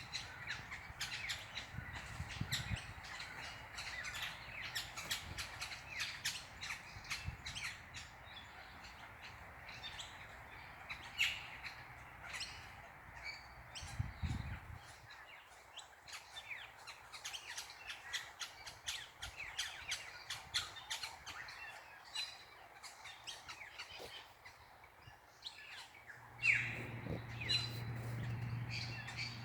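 Many small birds chirping busily in a tree: dense, overlapping short high chirps and calls with no pause. A low steady hum comes in near the end.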